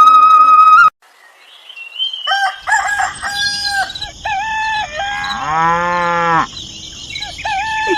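Chickens calling and a rooster crowing, several calls in a row, with one long bending call near the middle. Before that, a loud held whistle-like tone cuts off about a second in.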